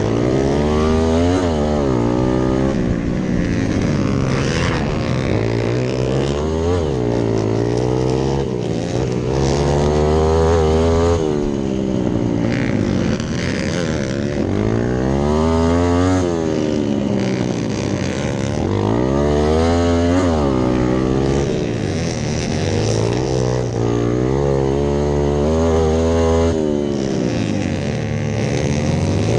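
A Hero Impulse dirt bike's single-cylinder four-stroke engine is revved hard and backed off again and again, its pitch climbing and falling every few seconds while racing around a dirt track.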